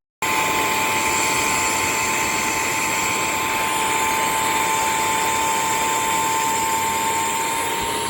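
Bissell CrossWave OmniForce wet-dry vacuum's motor running steadily, with a high whine over a rushing air noise. It starts abruptly at full speed.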